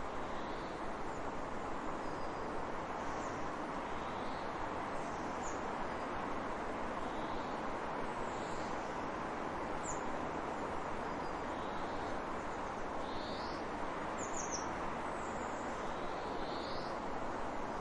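Steady rush of running water with birds giving short, high chirps now and then over it, a few of them in quick succession a little past the middle.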